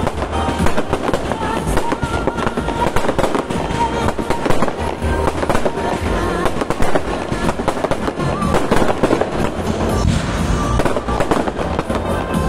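Aerial fireworks display: a dense, continuous barrage of rapid bangs and crackles from shells bursting overhead, with music playing underneath.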